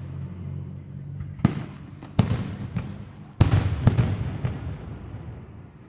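Aerial fireworks exploding: four loud sharp bangs in under three seconds, each echoing away, with a few smaller pops between them.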